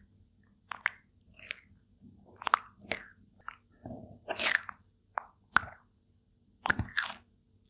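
A turtle biting and chewing its food, an irregular series of short crunches.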